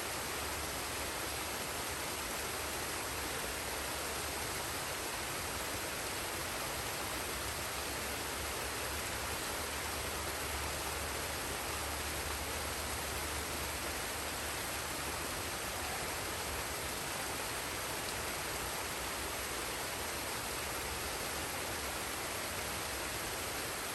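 Waterfall and stream water rushing steadily, an even wash of sound with no changes.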